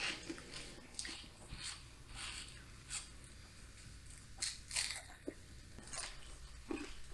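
Someone chewing and biting into tacos: a run of short, soft crunches and mouth sounds at irregular intervals.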